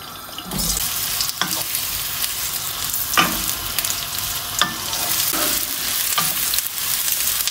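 Boiled cauliflower florets going into hot oil in a frying pan: a steady sizzle starts about half a second in, with the spatula scraping and knocking against the pan several times as the florets are stirred.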